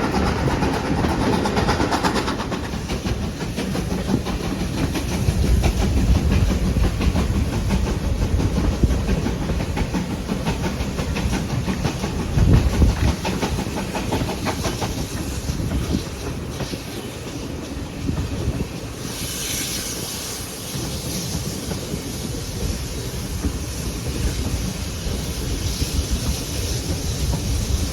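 Heritage railway train running on the line: steady rumble with wheels clicking over rail joints and some hiss. A brighter hissing noise comes in about two-thirds of the way through.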